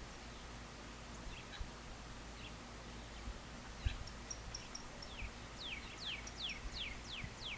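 Wild birds calling: scattered short chirps and a few high notes, then a quick run of about six down-slurred whistled notes near the end, over a steady low background hiss.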